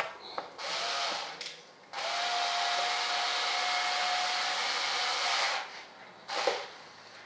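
A small handheld power tool's motor running in short bursts: a brief run about half a second in, then a steady whirring run of about three and a half seconds, and a short blip near the end.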